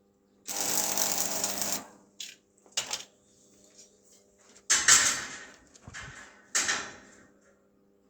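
Metal door hardware being worked: a rasping slide of over a second, a couple of light clicks, then two sharp metallic clacks that ring briefly, like a bolt sliding and snapping home.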